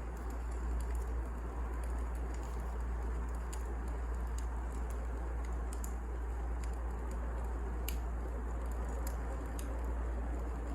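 Firewood burning in a fireplace: a steady low rush of flames with scattered small crackles and pops.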